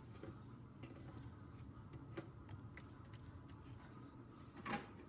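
Faint, scattered light clicks and taps of apple rings being laid onto a plastic dehydrator tray, with a slightly louder handling sound near the end.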